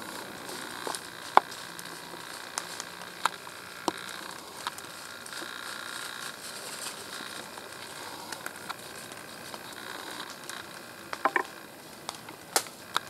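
Light rain pattering and ticking on leaves and the camera: a steady soft hiss with scattered sharp ticks, including a quick cluster of several about eleven seconds in.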